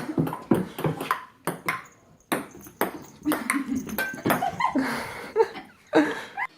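A quick, irregular series of sharp pings and knocks, like hard light objects striking and bouncing, with a few short voice sounds mixed in.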